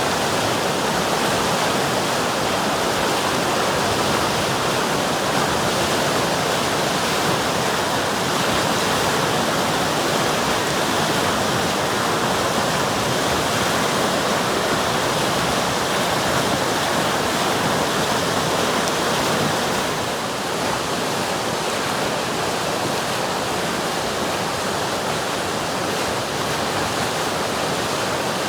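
River water rushing and flowing in a steady, even noise that eases slightly about two-thirds of the way through.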